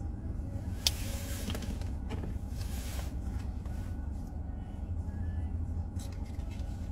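Steady low road rumble inside a moving car's cabin, with one sharp click about a second in.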